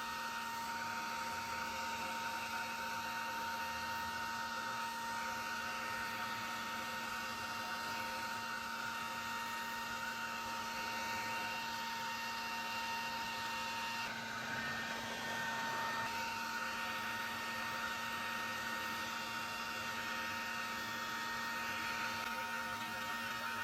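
Bucket-type vacuum cleaner running steadily, its motor whine and air rush continuous as it sucks wasps off their nest; the rush of air shifts briefly about two-thirds of the way through.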